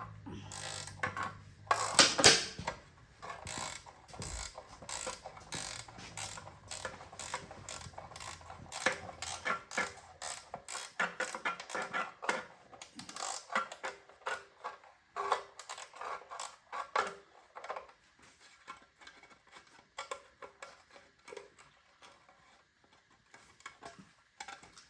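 Ratchet wrench clicking in runs of short strokes as a bolt is backed out of a small engine's cover, the clicks growing sparser toward the end.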